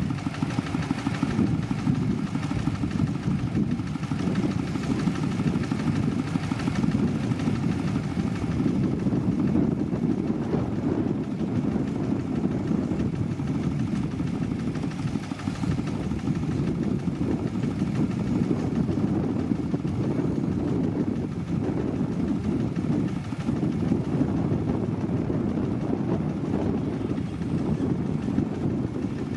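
Motor grader's diesel engine running steadily at a fairly constant speed while it works gravel.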